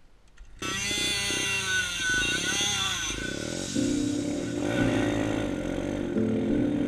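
Dirt bike engine running and revving, starting suddenly about half a second in, its pitch rising and falling for a couple of seconds and then running steadier.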